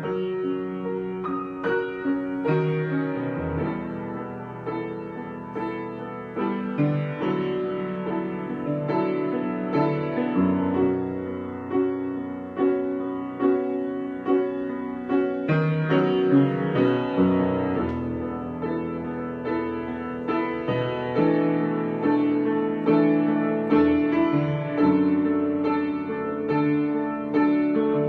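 Solo piano improvisation, chords and melody played continuously, with notes struck and left to ring.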